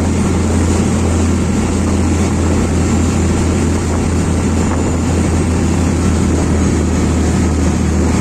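Boat engine running steadily, a constant low drone with rushing noise over it.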